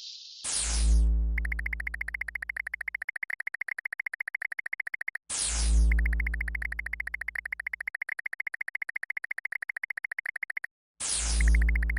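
Synthesized game sound effect repeated three times, about every five and a half seconds. Each one is a quick falling sweep with a deep boom that fades over a couple of seconds, then a fast electronic buzzing trill that cuts off abruptly.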